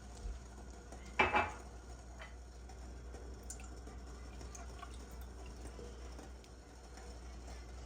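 Kitchenware clattering briefly about a second in, then a few faint clinks, over a low steady hum.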